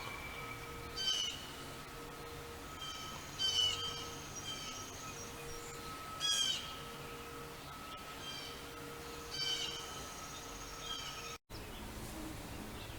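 A songbird calling repeatedly: a short burst of quick chirps about every three seconds, four times, over a steady hum of town background noise.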